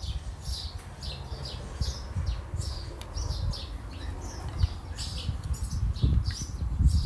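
Small birds chirping: many short, high calls in quick succession, over a steady low rumble.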